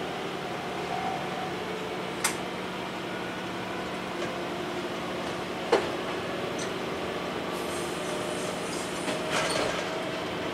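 Diesel railcar running along the track, heard from inside: a steady engine hum, with two sharp clacks of the wheels on the track, about two seconds in and just before the middle, the second one louder.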